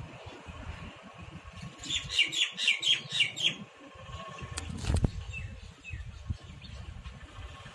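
A bird chirping a quick run of about eight sharp, high notes, with a few fainter chirps later. A single sharp knock about five seconds in.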